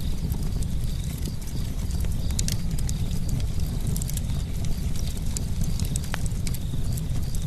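Campfire burning: a steady low rumble of flames with irregular sharp crackles and pops from the burning wood, one stronger pop about six seconds in.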